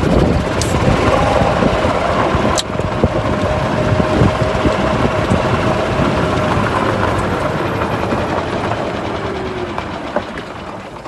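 Golf cart driving along, its motor giving a steady whine over rumbling road and wind noise. The whine drops in pitch and fades toward the end as the cart slows. There is one sharp click a few seconds in.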